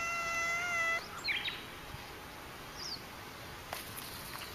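A cat's drawn-out, level-pitched meow that stops about a second in, followed by a few faint bird chirps.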